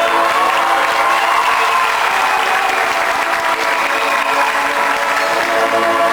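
Audience applauding and cheering for a marching band, with the band's held notes still faintly audible underneath.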